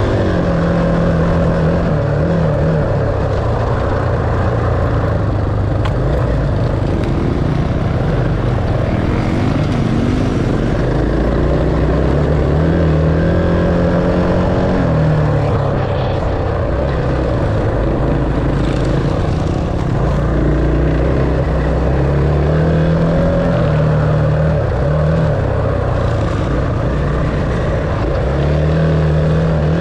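Dirt bike engine running while being ridden, its revs rising and falling throughout.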